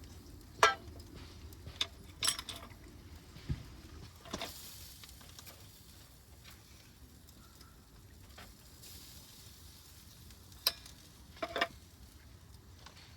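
A wood fire crackling, with several sharp pops over a low sizzling hiss.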